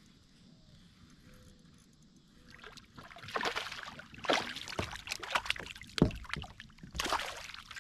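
Water splashing and sloshing close beside a kayak, starting about three seconds in, in irregular bursts with a few knocks against the hull.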